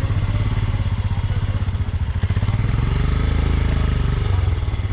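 Motorcycle engine running with a rapid, even beat, its pitch swelling briefly and easing back about midway.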